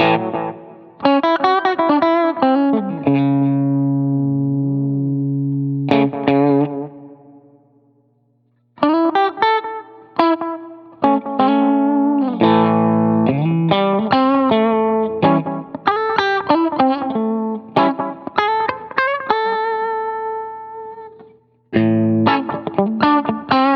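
Electric guitar, a Fender Stratocaster, played through a Boo analog delay pedal and a Line 6 HX Stomp. It plays melodic phrases with held notes that ring out and die away. The playing stops briefly about eight seconds in and again near the end.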